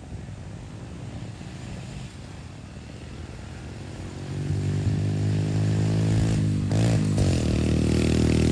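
Pit bike's small single-cylinder engine, faint at first, then running loud and steady close by from about halfway in, with a brief blip of the throttle a little later.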